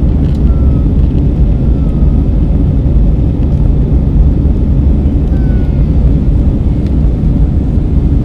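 Airbus A320 in flight after takeoff, heard from inside the passenger cabin: a steady low rumble of jet engines and rushing air.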